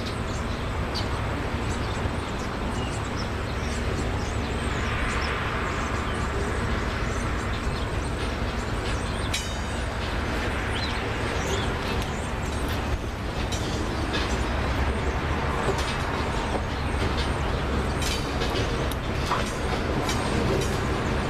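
A train approaching slowly along the track: a steady low rumble with scattered sharp ticks and squeaks from the wheels, growing slightly louder toward the end.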